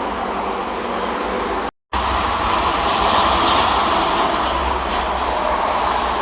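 Steady road traffic noise of heavy vehicles such as trucks and buses passing, a continuous rumble and tyre hiss that swells from about two seconds in. The audio cuts out completely for a split second just before that.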